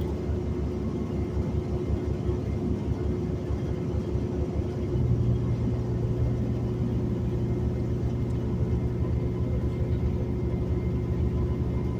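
City transit bus running, a steady engine and road rumble with a constant low hum. About five seconds in, a deeper engine drone comes in and holds.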